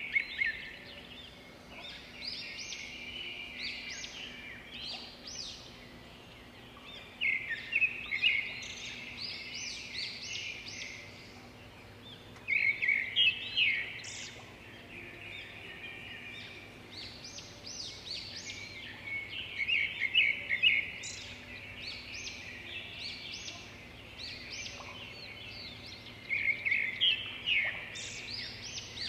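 Small birds chirping and trilling in quick runs of high notes, with a louder burst of song every five or six seconds.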